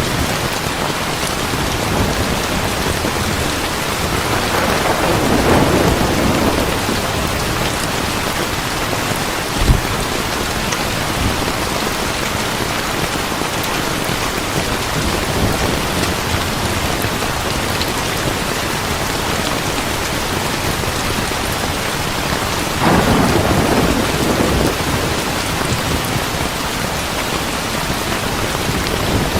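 Heavy steady rain, with thunder rumbling twice, once a few seconds in and again near the end. A single sharp pop is heard about ten seconds in.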